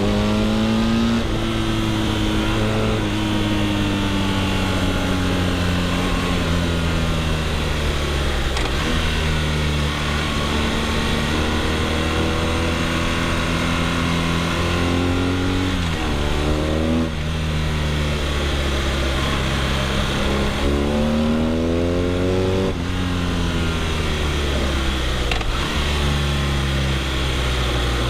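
BMW R nineT's boxer twin through an Akrapovic exhaust, running on the move. The engine note sinks slowly for the first several seconds, then climbs and drops sharply a few times in the second half, with sudden falls in pitch between the climbs.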